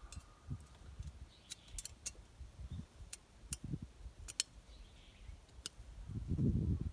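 Handling noise: about a dozen sharp clicks and light knocks scattered over several seconds, with a louder low rumble near the end.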